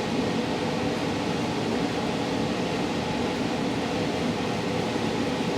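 Steady mechanical hum of a running machine, even throughout, with a few faint steady tones in it.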